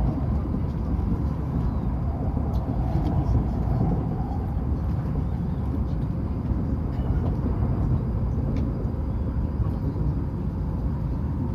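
Hokuriku Shinkansen train running at speed, heard from inside the passenger car: a steady low rumble of wheels on track with a faint steady hum.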